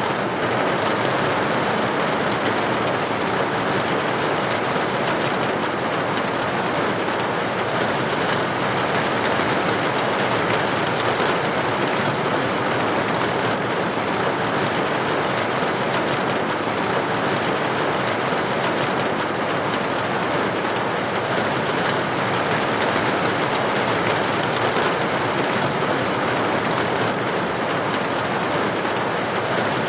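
Steady, even rain pattering against a window pane, a constant hiss with faint individual drop hits in it.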